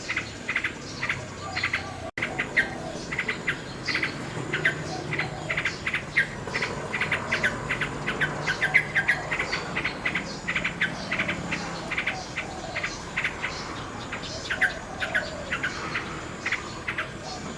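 Nightingale singing: fast runs of repeated sharp notes and trills, over softer, lower warbled phrases. A brief dropout in the sound about two seconds in.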